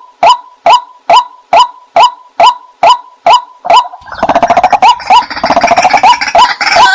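White-breasted waterhen calls used as a hunting lure: a short, loud note repeated evenly about twice a second. About four seconds in, it gives way to a denser chorus of overlapping calls, as if several birds are calling at once.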